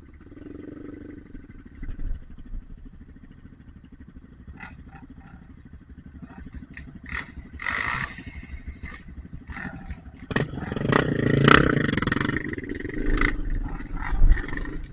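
Single-cylinder dirt bike engine running on a trail, its drone swelling loudest about ten seconds in as it is revved, with many sharp knocks and clicks scattered through the second half.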